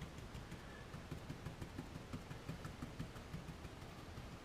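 Coarse brush stippling dry paint onto model railway ballast: faint, irregular soft taps, several a second.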